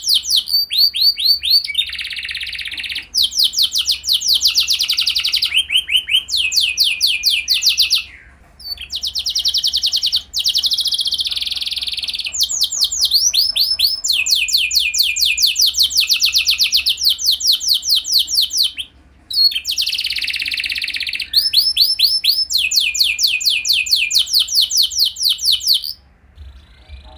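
Domestic canary singing long runs of rapid trills, each phrase a fast series of repeated high notes, with brief pauses between runs. This is a canary song played to prompt other canaries to sing along.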